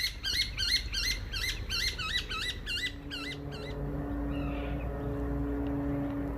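A bird calling in a fast run of swooping chirps, about three or four a second, for roughly four seconds. A steady low motor hum rises underneath from about three seconds in.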